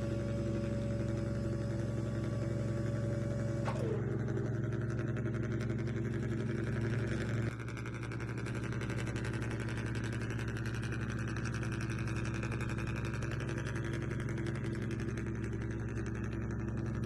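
Small electric motors of remote-control models humming steadily. A higher whine winds down and stops about four seconds in, as one motor spins down.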